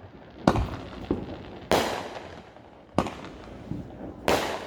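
Fireworks going off: four sharp bangs about a second and a quarter apart, each trailing off over about a second.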